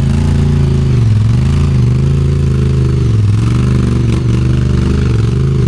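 Off-road side-by-side engine running hard under throttle, its revs rising and falling again and again as it works over rough trail.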